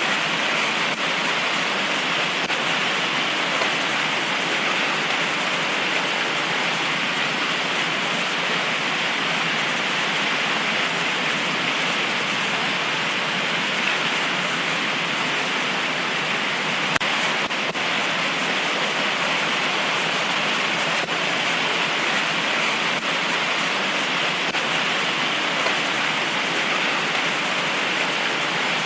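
Heavy tropical rain falling steadily, an even hiss of rain with no thunder. It keeps a constant level throughout, with only a faint tap or two.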